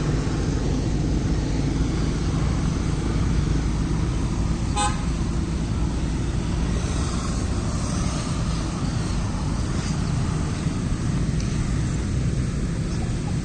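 Steady rumble of street traffic, with one short car-horn toot about five seconds in.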